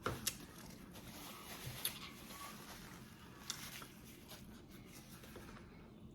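Close-miked eating: quiet chewing of a hard-shell taco, with a few sharp crunches in the first half.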